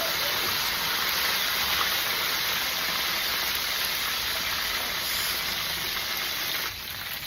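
Whole red snapper deep-frying in hot oil: a steady, loud sizzling hiss that drops in level near the end.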